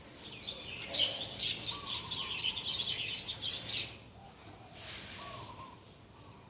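Small birds chirping and twittering in a dense, high-pitched burst for about three seconds, followed by a brief rushing sound about five seconds in.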